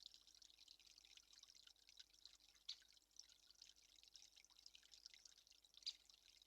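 Faint, irregular patter of water drips, with a couple of louder drips near the middle and near the end, over a faint steady hum.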